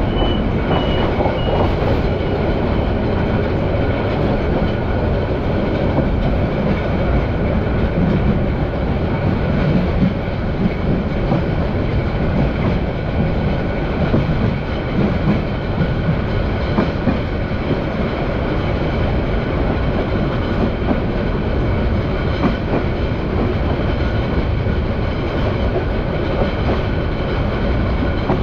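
Passenger train running along the track, heard from on board: a steady rumble of wheels on rails with some clickety-clack.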